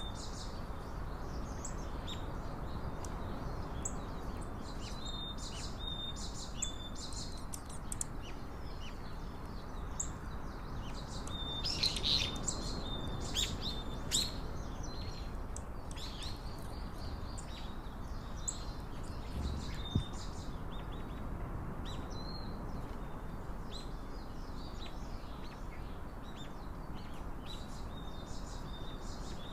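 Small birds chirping and calling again and again in short high notes, over a steady low background noise.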